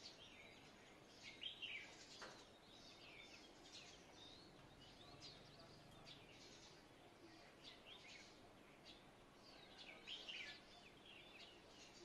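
Faint birdsong: small birds chirping in quick, short calls over a light background hiss, busier about a second and a half in and again near ten seconds.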